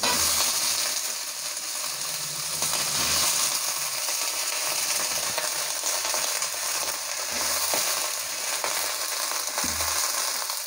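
Sliced onions and brinjal (eggplant) pieces sizzling in hot oil in a steel kadai, a steady hiss, with a few light clicks as the vegetables are added and stirred with a metal spatula.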